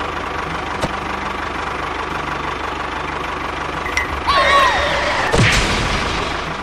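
Tractor engine running at a steady idle with a low knocking rumble. About four seconds in, short curving squeals and then a quick falling tone cut in over it as the toy tractor tips over.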